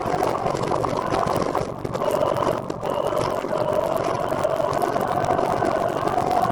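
Steady road and wind noise while riding a recumbent trike, with a steady hum that strengthens and rises slightly in pitch about two seconds in.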